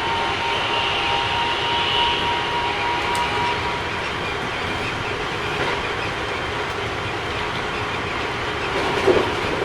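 Keikyu 1000 series electric train with Mitsubishi IGBT inverter running on the line, heard from on board: a steady rumble of wheels on rail. A thin steady whine fades out about four seconds in, and there is a single knock near the end. This set runs a little noisier than others of its class.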